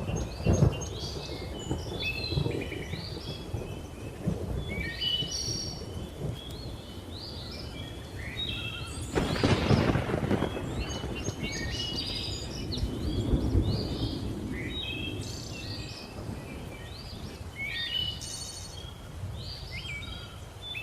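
Birds chirping and calling over low rolling thunder, with a louder crack and rumble of thunder about nine seconds in.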